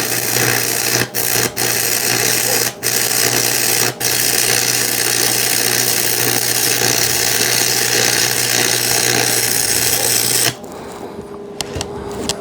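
Electric arc welding on square tubing: the arc crackles and hisses steadily over a low buzz, briefly breaking four times in the first four seconds, then stopping about ten and a half seconds in. The arc is being struck to heat the metal before the weld run.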